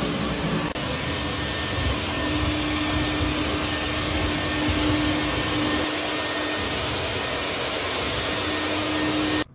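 Vacuum suction running steadily on a dryer vent during cleaning: a loud, even rush of air with a steady hum, which cuts off suddenly near the end.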